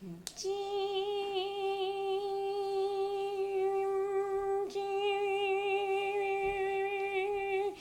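A woman humming one long, steady, high buzzing note in imitation of a mosquito's whine, held for about seven seconds with a brief catch about halfway through.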